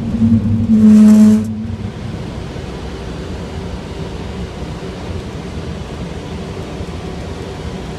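Steady rumble and rush of a Boeing 757 during its takeoff. In the first second and a half a brief, loud pitched sound stands out over it before the steady noise carries on.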